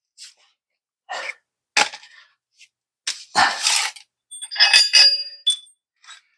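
Irregular metallic clinks and knocks of a wrench, nuts and bolts being worked on a steel suspension bracket, about half a dozen separate strikes, with a ringing clink a little before five seconds in.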